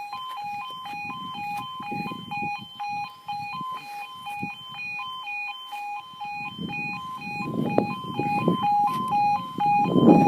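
UK level crossing warning alarm sounding steadily, two tones alternating in a continuous yodel. An approaching train's rumble builds over the last few seconds and is loudest near the end.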